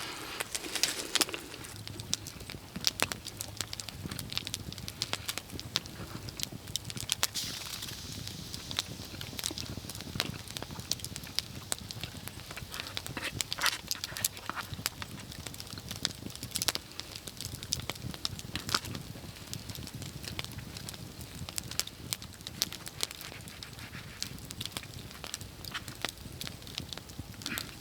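Campfire crackling, with frequent irregular pops and snaps of burning wood.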